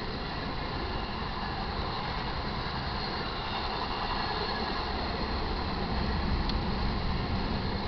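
Intermodal freight train's cars rolling past at speed over a grade crossing: a steady rushing rumble of wheels on rail, a little louder near the end.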